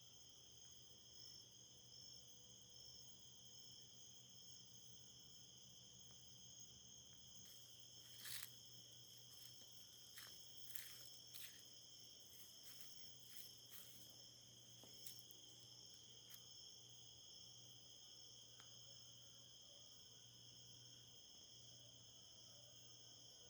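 Faint, steady chorus of crickets trilling, with a scattering of soft clicks a third of the way through.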